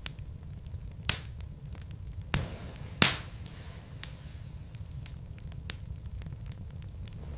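Wood fire burning in a fireplace: a steady low rumble with scattered sharp crackles and pops from the burning logs, the loudest pop about three seconds in.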